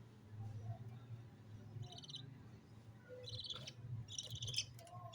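Budgerigars giving short, harsh, buzzy chirps: a brief call about two seconds in, then two more in quick succession in the second half, over a faint steady low hum.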